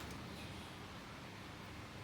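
Faint steady background noise: room tone with a low hum and no clear event.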